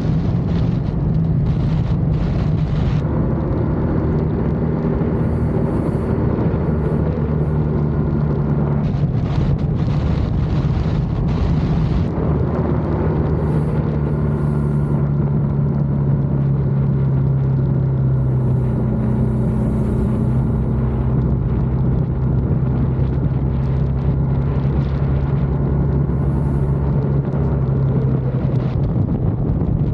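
BMW R1200GS boxer-twin engine running under way at road speed, its pitch shifting up and down several times with throttle and gear changes, over a steady rush of wind and road noise.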